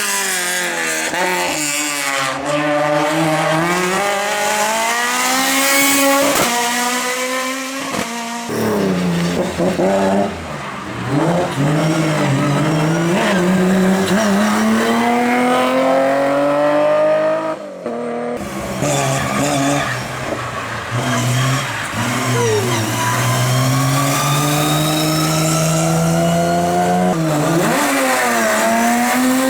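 Competition cars' engines revving hard as they accelerate, the pitch climbing and dropping back again and again through gear changes, in several separate passes that break off abruptly twice.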